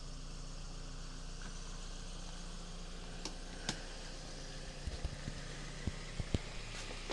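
Toyota bB idling with a steady low hum, with a few sharp clicks about three and a half seconds in and several short low knocks a little later.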